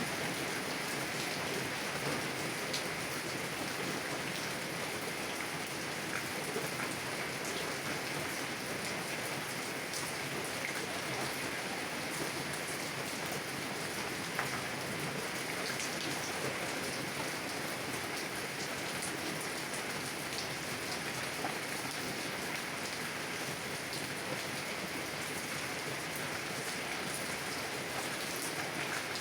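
Heavy rain drumming steadily on a car's windows and body, a constant hiss with scattered individual drop ticks.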